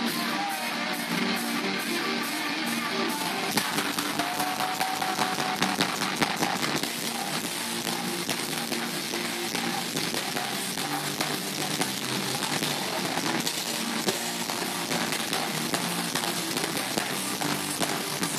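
A heavy metal band playing live, with loud distorted electric guitars, bass and drums, recorded with poor, distorted sound.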